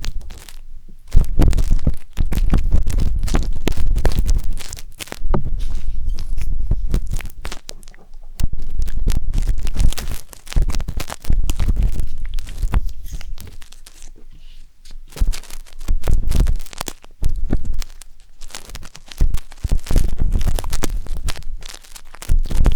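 Wooden skewer scraping and rubbing inside the silicone ears of a 3Dio binaural microphone: close, crackly scratching with a heavy low rumble. It comes in bursts of a few seconds, separated by short quieter pauses.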